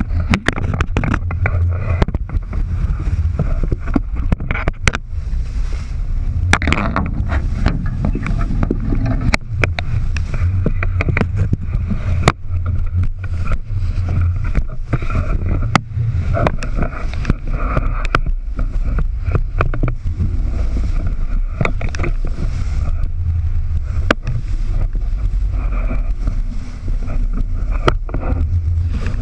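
Sailboat underway at sea: a steady low rumble of wind and water with frequent sharp knocks and clicks throughout.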